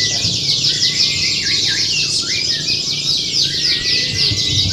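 Several canaries singing at once: dense, fast trills and rapidly repeated chirps, with a long held whistle-like note running through part of it.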